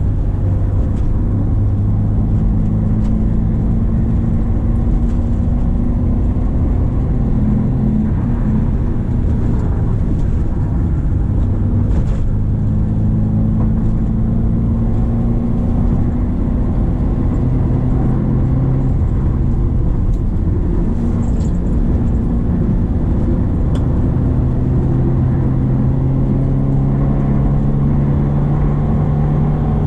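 Subaru Impreza XV 2.0's four-cylinder boxer engine pulling uphill under load. The revs climb slowly several times, falling back in between.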